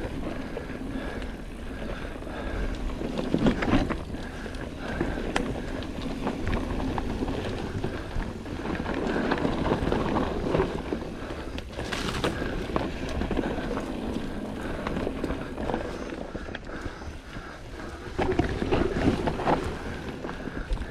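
Rock Machine Blizzard mountain bike ridden along a dirt trail: tyres rolling over the ground with the bike rattling and knocking over bumps, and wind on the helmet camera's microphone. The loudest knocks come about three and a half seconds in, around twelve seconds in and near the end.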